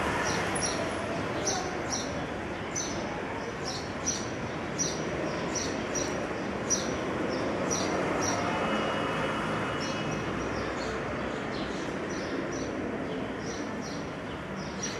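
A small bird chirping over and over, short high chirps about one or two a second, over a steady background of outdoor noise.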